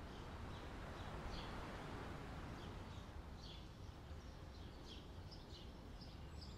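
Small birds chirping: short, high, down-slurred notes, sparse at first and coming thick and fast from about halfway through, over a steady low rushing background.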